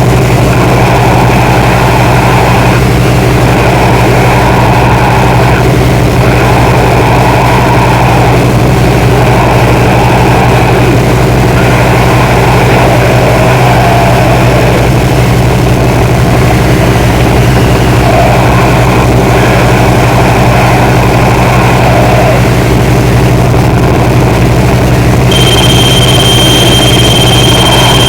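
Loud, steady droning noise: a low hum under a rough, wavering mid-range hiss, with a thin high steady whine joining about 25 seconds in.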